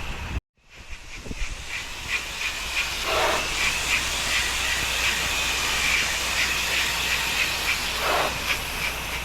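Pressure-washer rinse spray hissing steadily as the water jet rinses down the house's windows and gutter line, with a fluttering edge. The sound cuts out completely for a moment about half a second in.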